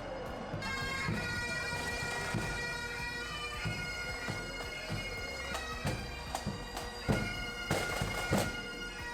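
Bagpipes playing a tune over a steady drone, coming in about half a second in, with a few sharp knocks near the end.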